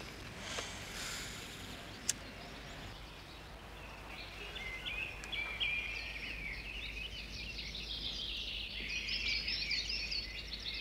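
Outdoor ambience with small birds chirping and twittering; the chirping starts about four seconds in and grows busier toward the end. A single sharp click about two seconds in.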